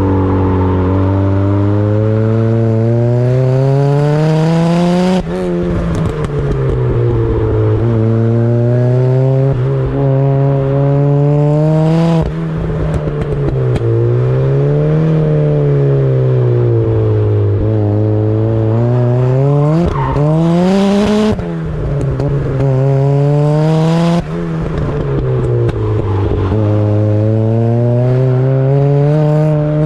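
Turbocharged Mazda MX-5's four-cylinder engine being driven hard on track, its revs climbing and falling again and again, with sudden sharp drops in revs four times.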